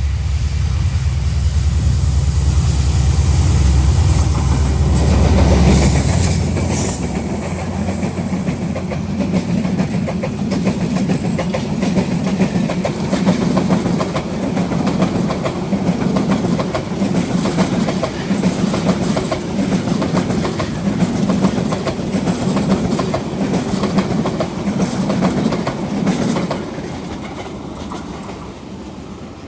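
Diesel-hauled intercity passenger train passing: a deep locomotive engine rumble for the first six seconds or so, then the coaches' wheels clattering over the rail joints in a steady clickety-clack, which fades away near the end.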